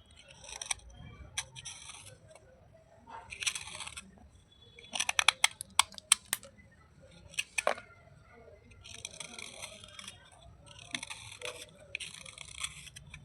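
Wet slate pieces crunching, in short bursts of gritty crunching. A quick run of sharp snaps and cracks comes in the middle, then longer crunching bursts follow.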